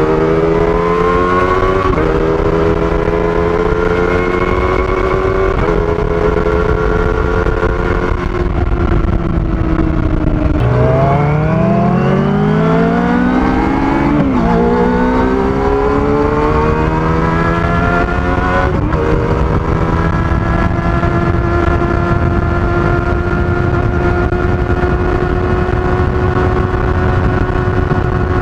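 Kawasaki ZX-25R's 249 cc inline-four through its stock exhaust, ridden: the revs climb and drop back with upshifts about 2 and 6 seconds in, ease off around 8 to 10 seconds, climb steeply again through two more quick upshifts, then settle into a steady cruise for the last eight seconds or so.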